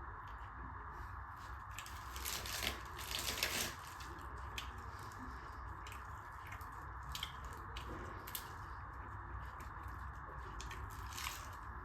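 Close-miked eating sounds: wet chewing and mouth clicks of tandoori butter roti with dal, louder and denser about two to four seconds in, over a steady background hiss.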